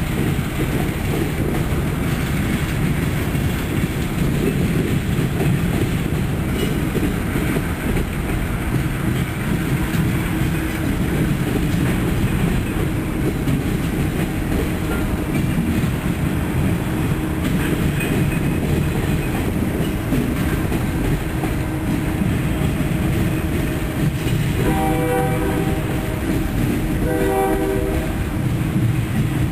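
Freight train of boxcars rolling past, a steady rumble and clatter of steel wheels on rail joints. Near the end a train horn sounds a few short blasts.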